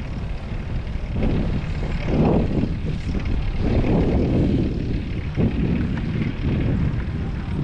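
Wind buffeting the action camera's microphone while cycling: a steady low rumble that swells louder twice, about two and four seconds in.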